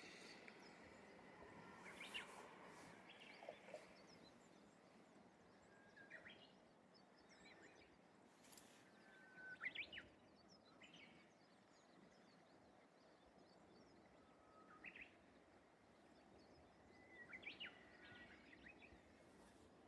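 Japanese bush warbler and other birds singing in short, scattered phrases over a faint steady outdoor hiss. Several phrases begin with a held whistle and end in a quick, higher flourish.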